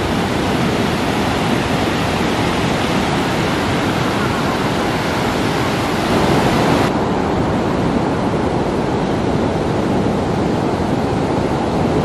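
Sea surf with wind on the microphone: a steady rush of noise that suddenly turns duller, losing its hiss, about seven seconds in.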